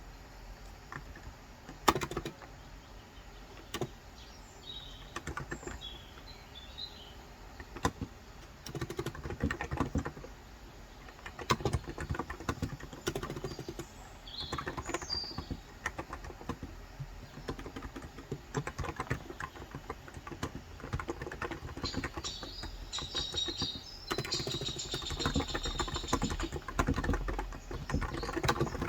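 Typing on a Cox Endeavor electro-capacitive (contactless, 35 g) tenkeyless keyboard, in uneven runs of keystrokes with short pauses. Birds chirp in a few short spells, most of them near the end.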